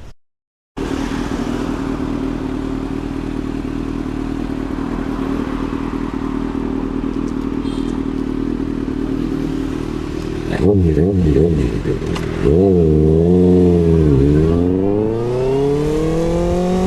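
Kawasaki ZX-6R inline-four sport bike with an SC Project CRT exhaust idling steadily, then revved: a few quick throttle blips about two-thirds of the way in, followed by longer revs that fall and rise in pitch.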